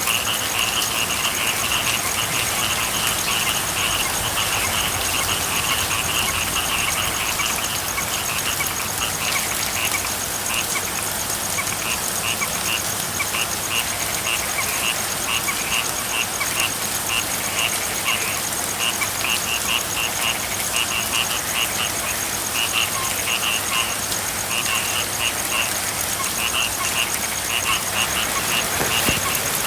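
A chorus of frogs calling over steady rain. The calls run together at first, then come as short repeated pulses from about a third of the way in.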